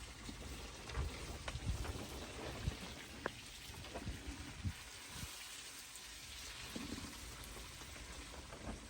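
Steady hiss of rain falling, with scattered short low knocks throughout.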